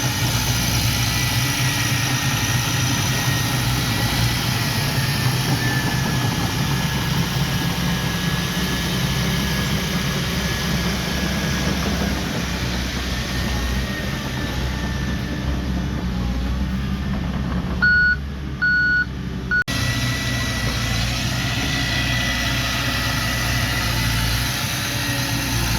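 Heavy diesel earthmoving machinery running steadily, with a faint high whine above the engine. About 18 seconds in, the engine sound drops away and two short reversing-alarm beeps sound. The engine noise then comes back abruptly.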